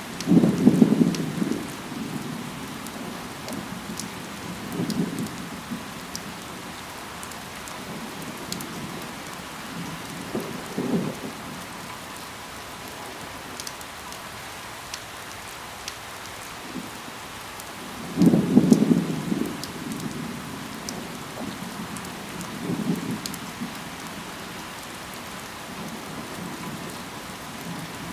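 Steady rain, with scattered drops ticking on leaves. Short low rumbles swell up about every few seconds; the loudest come about a second in and again about two-thirds of the way through.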